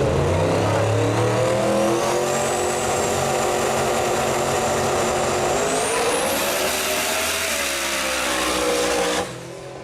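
Drag race car at full throttle down the strip, its engine note climbing with a high whine rising alongside it. The pitch steps up a couple of times before the sound cuts off abruptly about nine seconds in.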